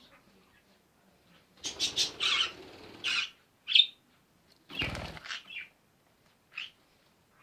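Pet parrot flapping its wings in two bursts, about two seconds in and again near five seconds, with a few short, high chirps between and after.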